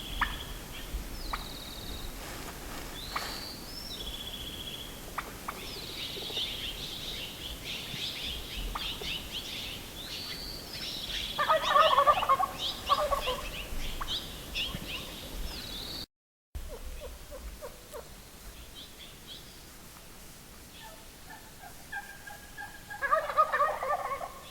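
Gould's wild turkey gobbler gobbling twice, a loud rattling gobble about halfway through and another near the end. Small songbirds chirp in the background through the first half.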